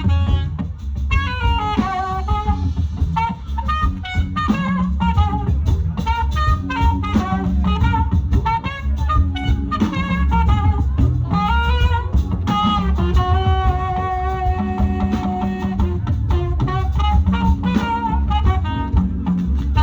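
Live band playing an instrumental Afrobeats passage: a melodic lead line of sliding and held notes over a steady drum kit and bass groove.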